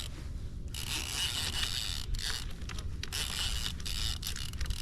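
Fishing reel being cranked to bring in a hooked spotted bass: the reel's gears grind in spurts, with short breaks between turns.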